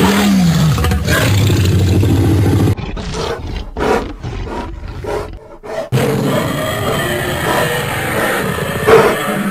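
Cartoon voices roaring and screaming loudly over music: a falling cry at the start, then a long sustained roar that breaks up into choppy fragments in the middle before running on steadily.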